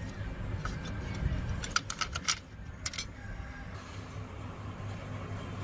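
A quick run of light metallic clinks and clicks, like small metal parts being handled, over a steady low hum.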